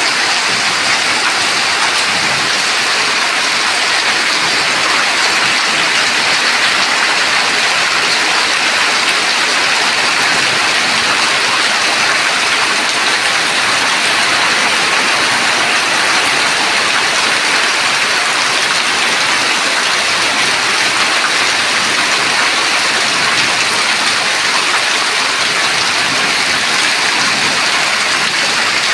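Heavy rain pouring down steadily, a dense even hiss of drops on surfaces.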